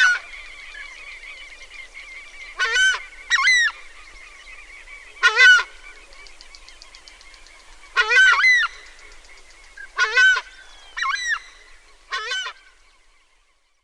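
A large wild bird giving a series of loud, harsh calls, about eight in all, some in quick pairs, over a faint steady chorus of other wildlife; the calls stop about a second before the end.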